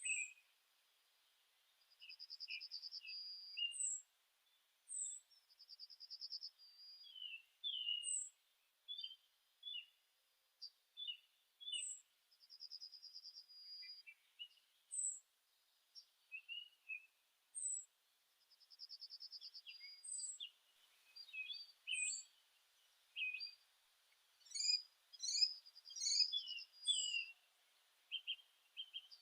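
Several songbirds chirping and singing: short high chirps and quick sliding notes, with a fast trill that repeats every few seconds. The calls overlap most densely near the end.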